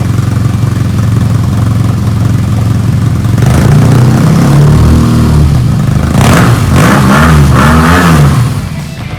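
BMW R nineT's 1170 cc boxer twin through an HP Corse GP7 exhaust, running at a steady low idle, then revved repeatedly from about three and a half seconds in, the pitch rising and falling with each blip. The sound drops away shortly before the end.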